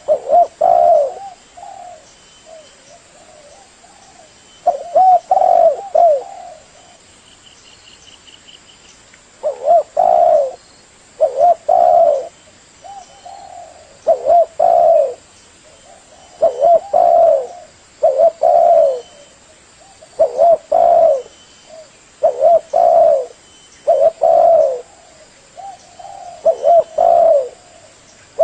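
Spotted dove cooing: a series of low, repeated coo phrases. After a few spaced phrases early on, they come about every two seconds from about ten seconds in. A brief faint high trill sounds about eight seconds in.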